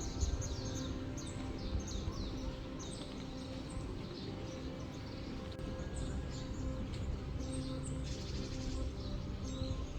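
Small birds chirping: rapid, short high chirps that fall in pitch, repeated throughout, over a steady low rumble with a faint low hum.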